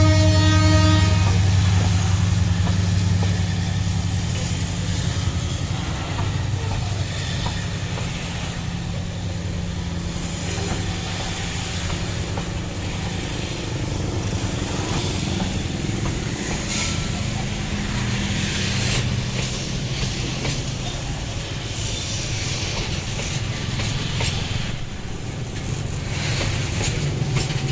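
Diesel locomotive hauling a coal train, its horn ending about a second in, then a steady engine rumble with wheels running on the rails. A high-pitched squeal joins from about twenty seconds in, as the train grows louder.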